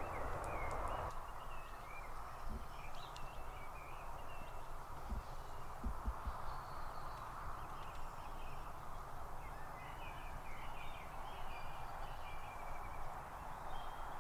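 Small birds chirping in short scattered calls, more of them in the last few seconds, over a steady rushing background noise, with a few soft low knocks about five to six seconds in.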